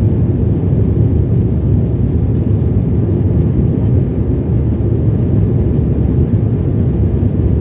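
Steady low rumble of an airliner heard from inside the passenger cabin: jet engines and airflow running evenly, with no changes in pitch.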